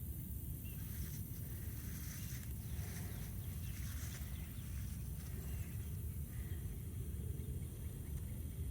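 Faint, scattered bird chirps and short sweeping calls over a steady low rumble, with a brief busier cluster of higher calls about three to four seconds in.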